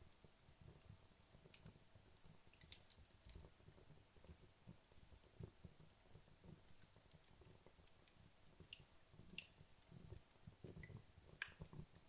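Wood logs burning in a fireplace, crackling quietly: a handful of sharp pops, the loudest about nine seconds in, over a faint low flutter of the flames.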